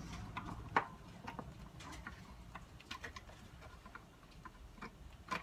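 Irregular light clicks and taps of small plastic radio parts and tools being handled during a teardown, with a sharper click about a second in and another near the end.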